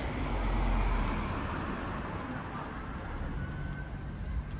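A road vehicle passing close by: a rushing, rumbling noise that swells about a second in and then slowly fades away.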